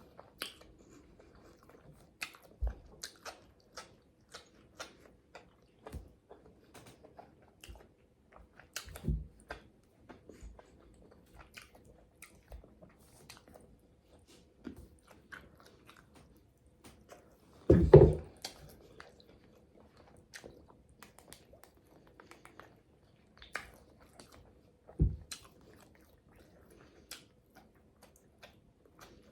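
Close-miked chewing of salmon and asparagus: steady mouth sounds with many small crisp clicks and crunches, and a few louder bites about nine, eighteen and twenty-five seconds in.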